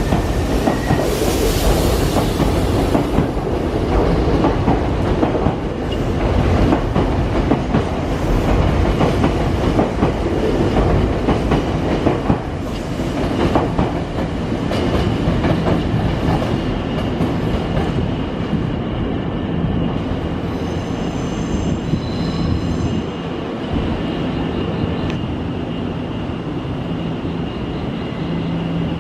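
Nankai electric train running slowly through the platform tracks, its wheels clicking over rail joints and points. Through the first half the clicking is thick; later the train's noise eases and a steady high squeal or whine carries on, with a brief high ringing tone about two-thirds of the way in.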